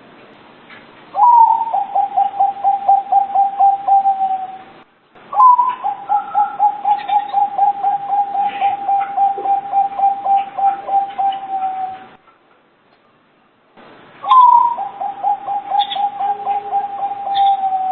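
Zebra dove (perkutut) singing: three bouts of its rapid staccato cooing. Each bout opens on a slightly higher note and runs into a quick, even string of coos at about five a second. The middle bout is the longest.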